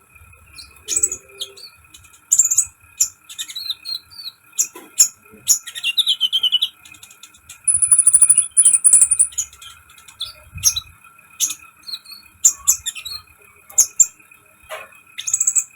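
Konin bird singing: a run of short, sharp chirps and whistled notes, with a warbled phrase about six seconds in and a fast, very high trill about eight seconds in. A faint steady high hum runs underneath.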